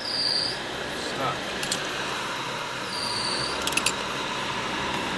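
Inside a car driving on snow and ice: a steady hiss of engine and road noise, with two short high squeaks about three seconds apart and a few light clicks.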